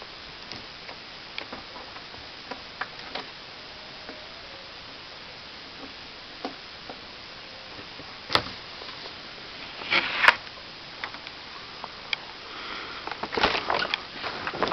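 Steady background hiss with scattered light clicks, a few sharp knocks about eight and ten seconds in, and a short run of rustling and knocks near the end.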